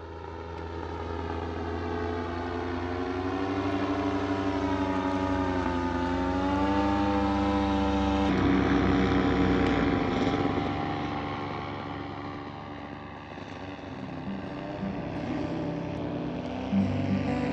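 A motor running with a steady pitched drone whose pitch drifts slowly up and down, changing abruptly about eight seconds in.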